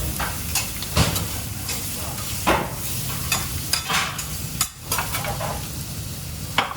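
Food sizzling as it fries in a pan, with several sharp knocks and clatters of utensils and pans spread through it.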